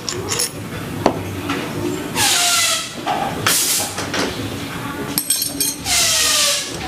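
Three bursts of compressed air hissing from a pneumatic tool, each with a whine that drops in pitch as it dies away. Metal parts click and clink between the bursts.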